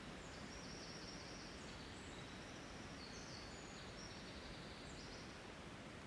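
A songbird singing one long, high, trilling phrase of about five seconds, stepping between pitches, over the steady faint hiss of an outdoor field recording.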